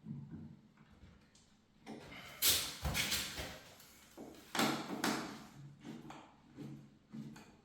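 A newly hung interior door being opened and pushed shut several times, with latch clicks and knocks against the frame. The loudest knocks come about two and a half seconds in and again near five seconds.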